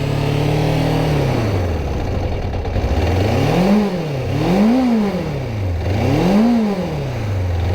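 Suzuki GSX600F's inline four-cylinder engine running on the move, dropping in revs about a second in, then rising and falling three times before settling at a low, steady pitch. The engine is spluttering and short of power, which the rider puts down to the fuel tap having been off.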